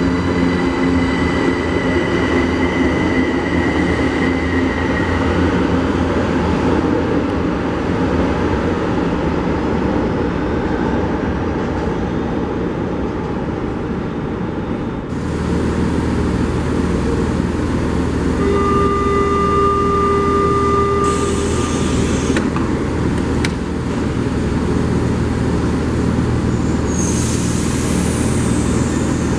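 São Paulo Metro train at a station platform, running with a steady mechanical hum that deepens about halfway through. A held electronic tone sounds for a couple of seconds after that, and there are bursts of hiss near the end.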